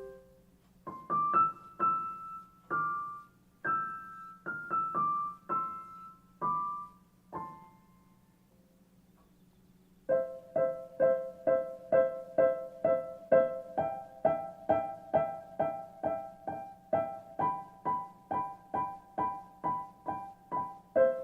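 Background piano music: a slow melody of single notes, a pause of about two seconds, then a steady repeating pattern of notes about three a second.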